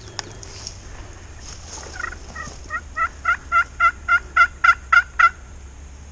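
Turkey yelping: a run of about ten loud, evenly spaced notes, about four a second, starting near the middle and stopping abruptly.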